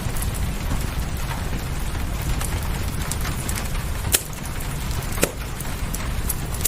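Wood fire crackling with scattered sharp pops, the two loudest about four and five seconds in, over a steady hiss of rain and a low rumble.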